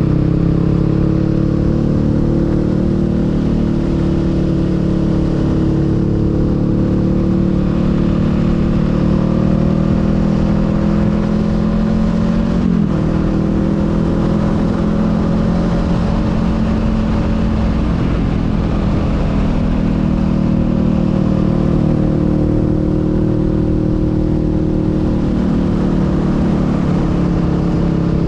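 Honda Rebel 500's parallel-twin engine running under way, its note drifting gently up and down with the throttle, with a brief dip in pitch about halfway through. A steady rush of wind and road noise runs under it.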